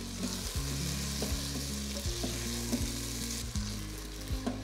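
Chopped tomatoes and onions sizzling in hot oil in an electric pressure cooker's pot on sauté mode, the sizzle strongest for the first three seconds or so. A wooden spatula stirs through them, scraping and knocking lightly against the pot.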